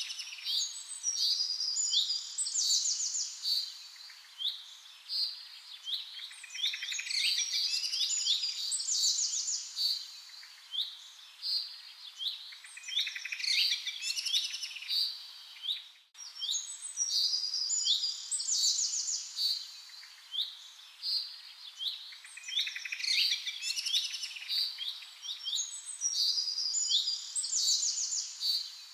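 Several birds chirping and calling, with quick repeated chirps and fast trills in close succession. There is a brief dropout about sixteen seconds in, where the recording seems to loop back.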